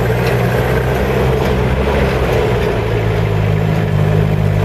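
Car engine running under way on a rough dirt road, heard from inside the cab, with its note shifting about two to three seconds in.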